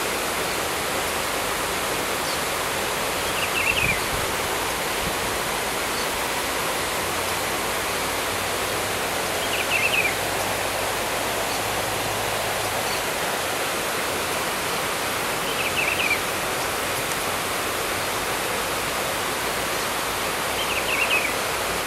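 A bird gives a short chirping call four times, about every six seconds, over a steady rushing noise like running water.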